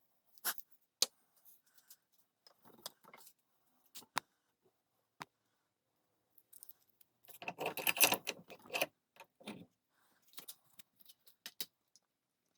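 Small tools and parts being handled on a workbench: scattered sharp clicks and knocks, with a dense rattling flurry of clicks about seven to nine seconds in.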